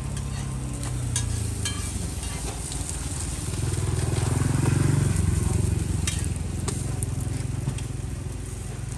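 Roti frying in oil on a flat round griddle, sizzling steadily, with a few clicks and scrapes of a metal spatula pressing and turning them. A low rumble swells and fades about halfway through.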